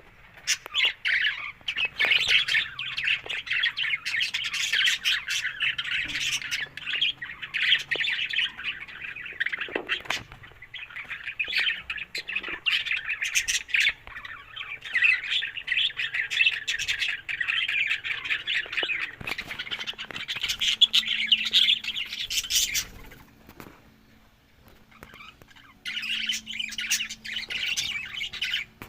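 Budgerigars chattering and squawking in a continuous warble, with a short lull about three-quarters of the way through.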